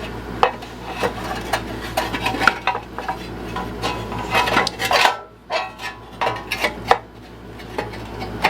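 Metal parts and fasteners clinking and scraping irregularly as a part is fitted back onto a Craftsman push mower's engine.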